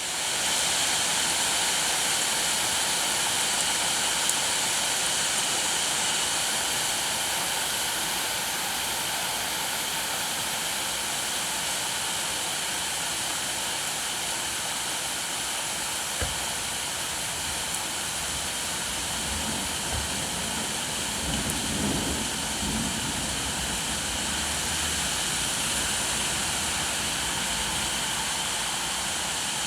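Steady rain falling, an even hiss that gets a little louder right at the start. About two-thirds of the way through, a low rumble swells and fades.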